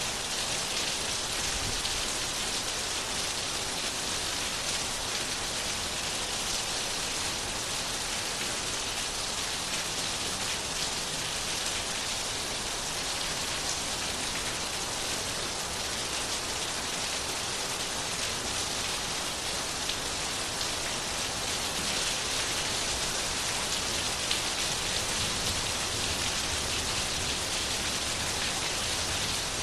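Steady rainfall: an even hiss of rain on a surface, with a few faint individual drop ticks.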